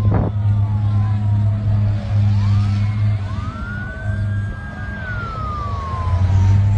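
Several emergency-vehicle sirens wailing at once, their pitches rising and falling out of step with each other, over a steady low hum. A short sharp knock comes right at the start.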